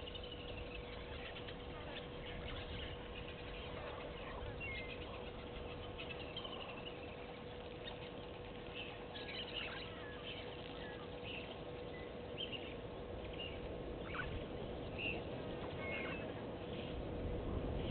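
Scattered short bird chirps and calls over a steady background hiss, with a faint constant hum underneath.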